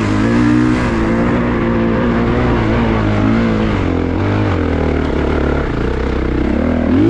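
Honda CRF450RX's single-cylinder four-stroke engine running under changing throttle, its pitch rising and falling, with a sharp rev-up near the end.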